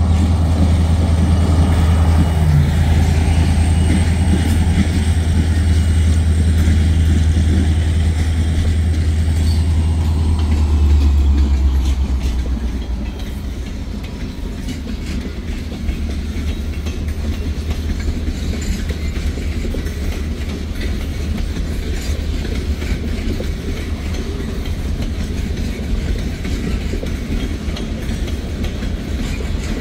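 Diesel freight locomotive passing with a loud low engine drone that falls away about twelve seconds in as it moves off. Loaded freight cars follow, rolling by with the clickety-clack of wheels over rail joints.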